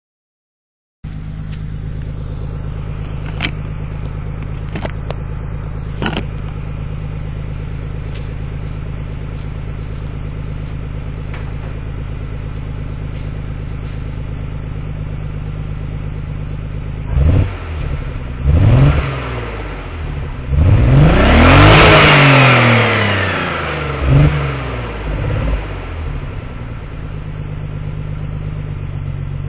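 1991 Nissan 300ZX Twin Turbo's 3.0-litre V6 running through a Stillen exhaust. It idles steadily, then is revved in a few quick blips and one longer, louder rev, and settles back to idle near the end.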